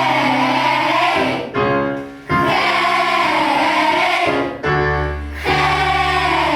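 A children's vocal ensemble singing a pop song together over instrumental accompaniment, in long held phrases with two short breaks between them.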